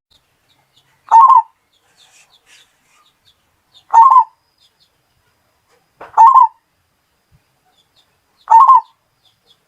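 Zebra dove (perkutut) cooing: four loud, short coo phrases, each about half a second long, repeated roughly every two and a half seconds. Faint chirps of small birds sound in the gaps.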